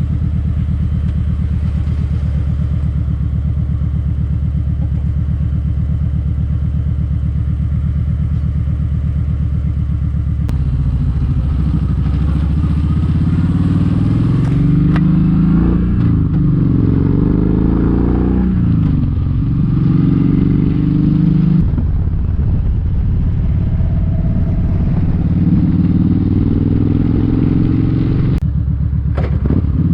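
Kawasaki Vulcan 1700 Vaquero's V-twin engine running at a steady pitch. About ten seconds in it starts accelerating through the gears, the pitch rising and dropping with each shift.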